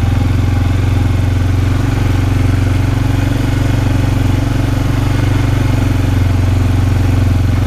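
Four-wheeler (ATV) engine running steadily at an even speed.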